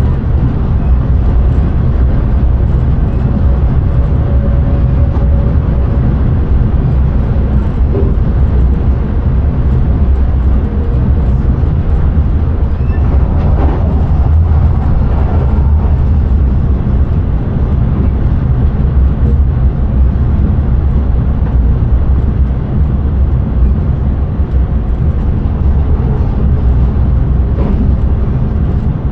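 Passenger train running steadily at speed, heard from the driver's cab: a loud, continuous low rumble of wheels on track.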